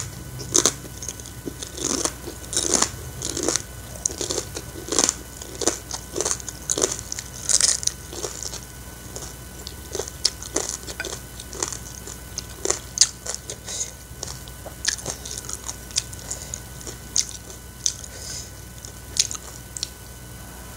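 Close-up eating sounds of a person chewing instant noodles and fried egg: wet chewing and lip smacks, many short irregular clicks a second or so apart.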